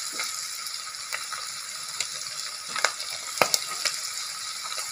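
Prawns frying in hot coconut oil in an iron kadai: a steady sizzle, with a sharp pop or crackle about every second as the prawns burst and spit oil.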